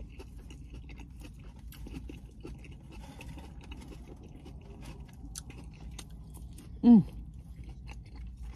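Quiet chewing of buffalo chicken salad with scattered faint clicks of a fork against a plastic takeout bowl. About seven seconds in comes one short, loud involuntary sound from the throat, falling in pitch, which she then excuses herself for.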